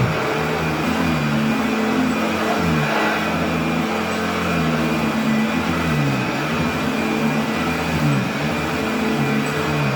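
Goblin Model 104 upright vacuum cleaner running over a rug, a steady motor hum whose pitch repeatedly rises and falls as the load on it changes.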